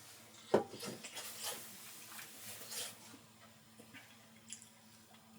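A sharp knock about half a second in, followed by a couple of seconds of rustling and light handling sounds, and a small click near the end, over a faint steady hum.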